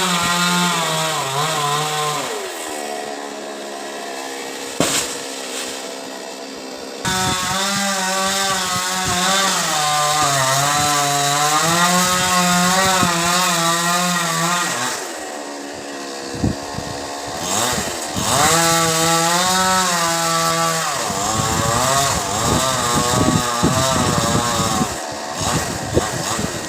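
Chainsaw engine running hard and cutting coconut palm wood, its pitch rising and sagging under load, easing off twice to quieter running between cuts.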